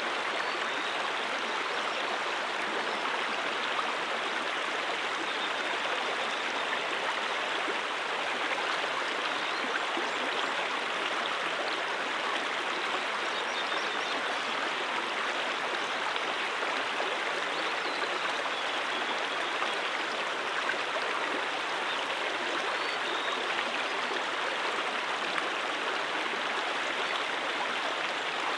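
Brook water flowing steadily, an even rushing sound that does not change.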